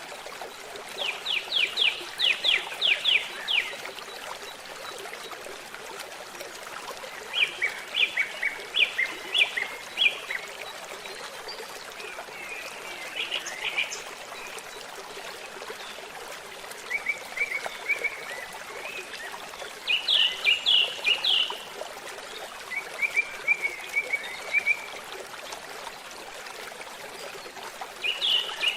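Songbird singing over a babbling stream: a steady trickle of running water, with short phrases of rapid repeated chirps about every three to five seconds.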